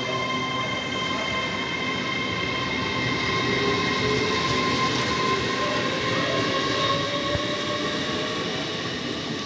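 A train running past, a steady rumble with a high whine of several held tones on top. It grows louder toward the middle and eases off near the end.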